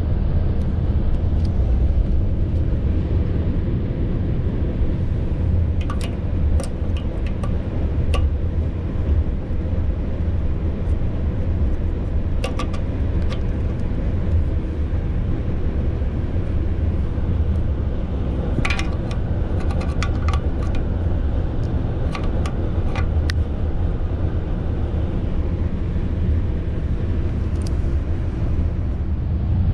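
Steady low rumble of a ZSSK Ampz passenger carriage running along the line, with a few scattered sharp clicks and rattles.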